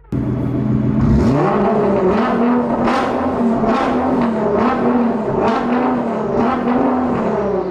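A car engine revving: the pitch climbs about a second in, then holds high with a run of short rises and dips, and falls away near the end.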